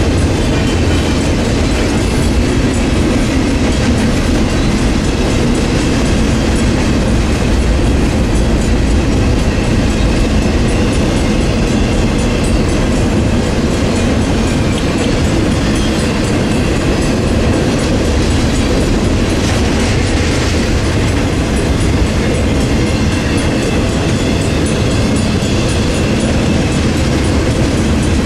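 Double-stack container cars of a freight train rolling past close by: a steady, loud rumble of steel wheels on the rails.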